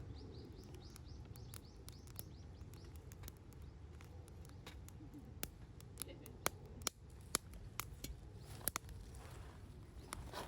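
Wood fire crackling: scattered sharp pops and snaps from the burning wood, coming thicker and louder in the second half, over a low steady rumble.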